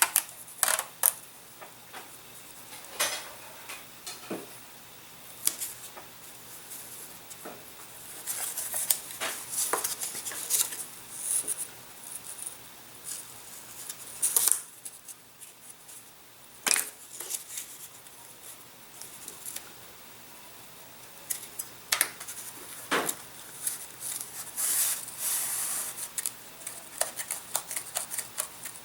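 Small handling noises of a model-aircraft wing being hinged with tape: scattered sharp clicks and taps, with a few stretches of scratchy, crackly rustling from tape being pulled and pressed down.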